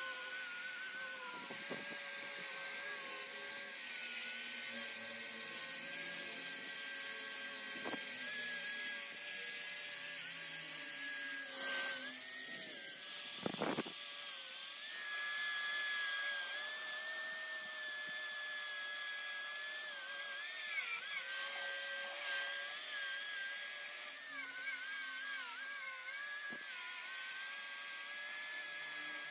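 Small high-speed electric power tool whining steadily, its pitch dipping and wavering a few times as it is loaded, with one sharp knock about halfway through.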